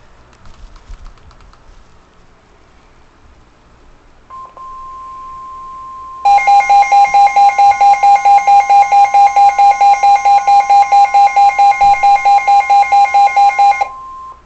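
Weather radio warning alert: a steady single-pitch alert tone starts about four seconds in. About two seconds later a loud electronic alarm joins it, beeping about six times a second for roughly seven and a half seconds before stopping. The alert announces a severe thunderstorm warning.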